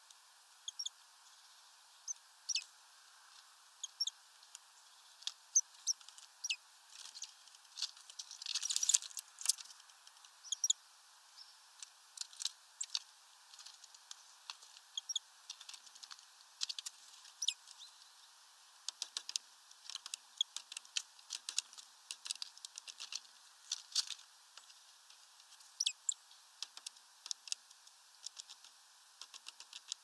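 Small bird at a clear plastic tub of water on a branch: scattered sharp ticks and taps from its beak and feet on the plastic, with a denser, louder scrabbling burst about nine seconds in.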